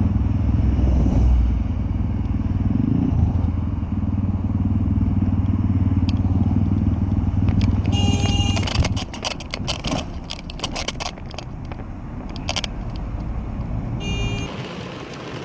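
Vehicle engine and road noise as a steady low drone. About eight seconds in comes a run of sharp bangs and clattering that lasts several seconds, like a collision. A short electronic beep sounds at the start of the bangs and again near the end.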